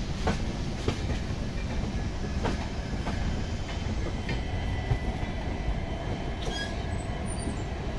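Passenger train's wheels running over rail joints and points at low speed: a steady rumble broken by irregular sharp clicks.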